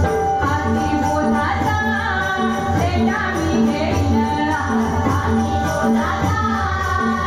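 Women singing a Marathi devotional bhajan in dabalbari style, over a steady beat of drum and jingling percussion.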